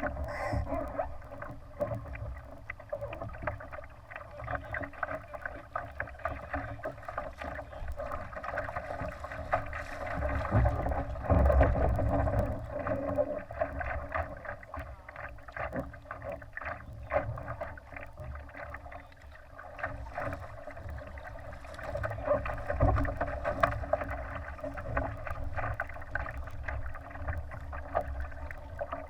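Water splashing and rushing along the hull of a Laser sailing dinghy under way, with many small slaps and knocks over a low rumble, swelling louder twice, about a third of the way in and again past the middle.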